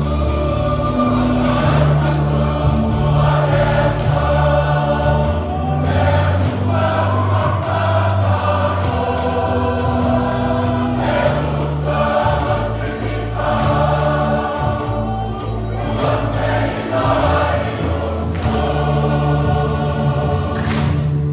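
A church choir singing a hymn in many-voiced harmony over held bass notes.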